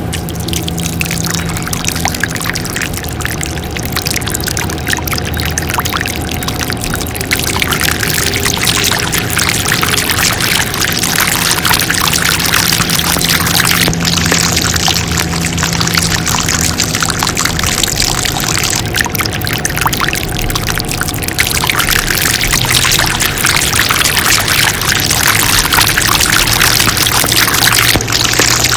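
Water pouring and gushing from a mini water pump's outlet, swelling and easing in surges, over the steady hum of the pump's small engine.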